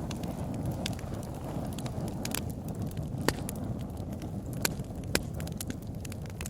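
Wood bonfire crackling, with sharp pops scattered irregularly over a steady low rumble of burning.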